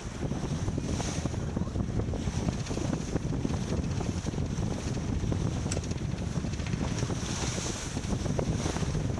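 Wind buffeting the microphone aboard a sailboat under way, a steady gusty rumble with the rush of water and a few faint ticks.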